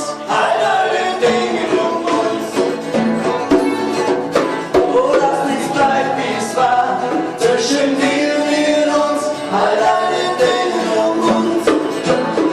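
A band playing a song, with singing over sustained instrumental notes and a steady beat of regular strikes.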